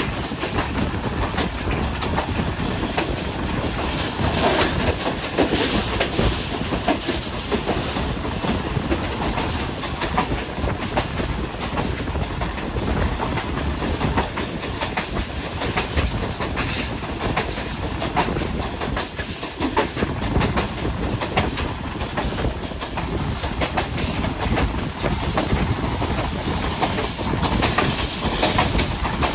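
Moving passenger train of the Hazara Express, its wheels clattering over the rail joints in a steady, continuous run.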